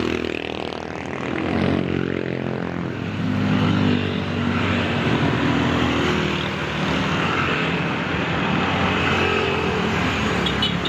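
Motorcycle engines running, a steady drone that dips slightly about a second in and swells again a few seconds later.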